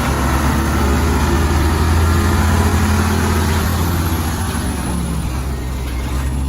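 Heavy diesel engine running steadily with a low drone, easing off slightly toward the end.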